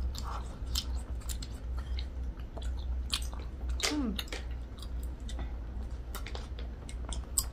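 Close-miked chewing of chewy tteokbokki rice cakes: irregular wet mouth clicks and smacks, several a second. A brief falling hum about four seconds in.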